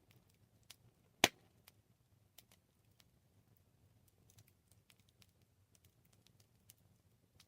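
Campfire crackling: scattered small pops and ticks, with one loud sharp pop about a second in, over a faint low rumble.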